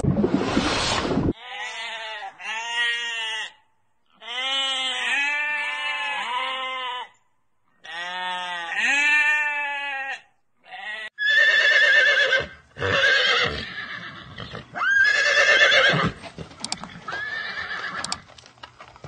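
A series of animal calls: short, repeated arching cries in groups, followed by louder, higher-pitched calls in the second half.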